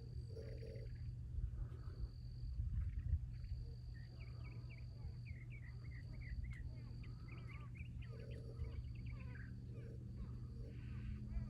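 Crows cawing harshly during a mob of a hawk, a couple of calls near the start and a few more around two-thirds of the way through. Between them comes a run of short, quick chirps. A steady low rumble of background noise lies under it all.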